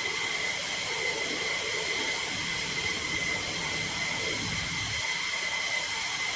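F-15E Strike Eagle jet engines running: a steady rushing noise with a high, even whine.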